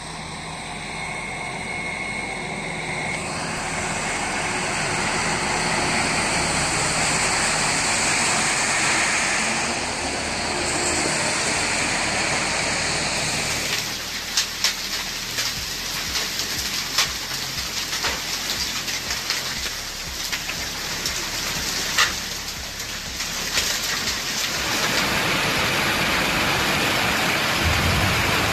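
A heavy downpour of rain and hail, a loud steady rush of water. In the middle stretch, sharp separate ticks and knocks stand out, like hailstones striking hard surfaces.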